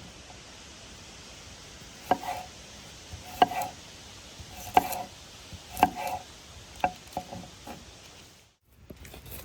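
A series of sharp knocks, about seven, roughly one a second starting about two seconds in, each with a brief ringing tone, like chopping strokes on wood. The sound cuts out for a moment near the end.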